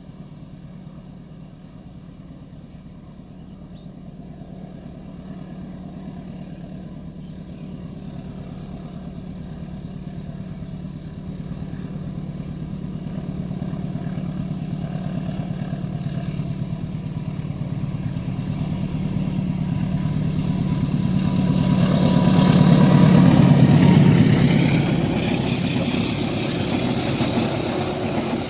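Diesel train approaching: a low locomotive engine drone grows steadily louder and is loudest about three-quarters of the way in. It is joined from about twenty seconds in by the rising rush of wheels on the rails.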